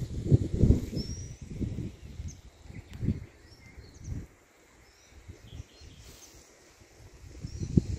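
Small birds chirping in short, high calls, over irregular low rumbling that dies down about halfway through and returns near the end.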